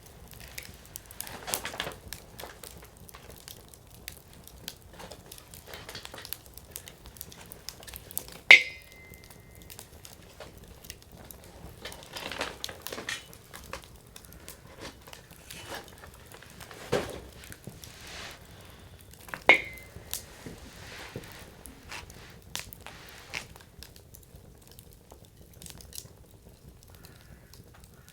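Firewood burning in an open campfire, crackling with irregular small ticks and snaps. Several sharp, louder pops stand out, the loudest about eight seconds in and again near twenty seconds.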